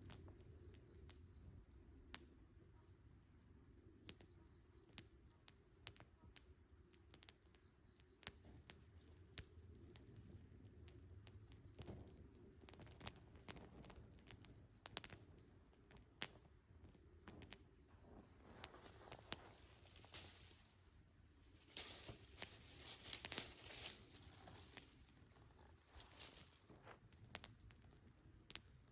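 Quiet crackling and popping, most likely a wood campfire, with sharp clicks scattered throughout and a faint steady insect trill underneath. A louder stretch of rustling and crinkling comes about three-quarters of the way through.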